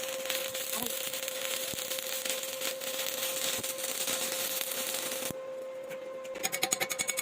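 Electric arc welding: the arc's steady crackling hiss, over a constant hum, cuts off about five seconds in. Near the end a rapid, even pulsing begins.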